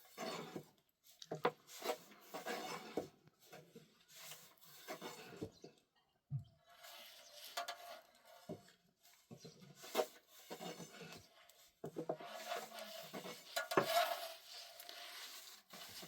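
Cookware and utensils being handled: irregular rubbing and scraping with sharp clicks and light clatter, busiest near the end.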